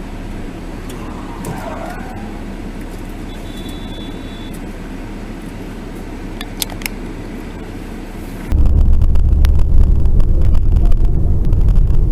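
Steady car road noise as picked up by a dashcam, with a couple of faint clicks. About eight and a half seconds in it switches abruptly to a much louder low rumble.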